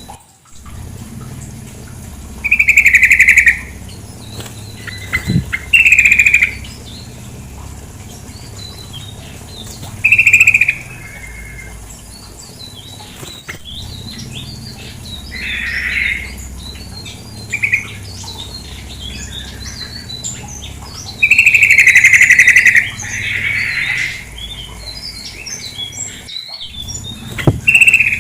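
Sooty-headed bulbul (trucukan) calls: loud phrases of about a second each, repeated every few seconds with quick, quieter chirps between them, over a steady background of running water.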